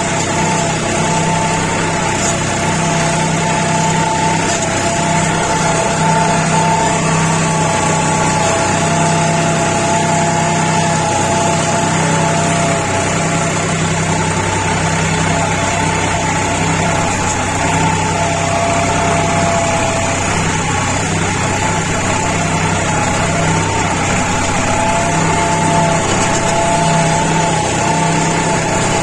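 New Holland 4710 tractor's three-cylinder diesel engine running steadily while pulling a five-tine duck-foot cultivator, its note holding even throughout.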